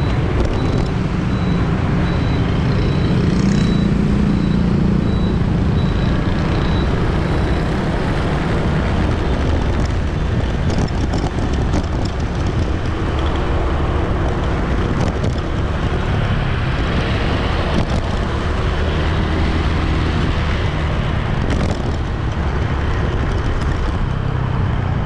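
City street traffic: a steady mix of vehicle engines and road noise. A high, evenly repeating beep, about two a second, sounds over it for the first seven seconds or so.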